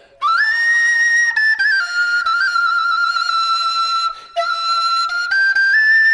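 High flute-like melody: a wind instrument sliding up onto a note, then playing long held notes that step up and down, with a short break about four seconds in.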